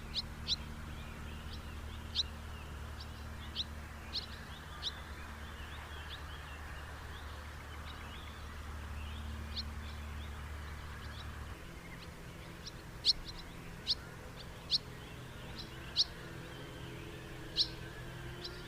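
House martin calls: short, sharp chirps scattered irregularly, the loudest coming in the second half, over a steady low background hum that shifts about two-thirds of the way through.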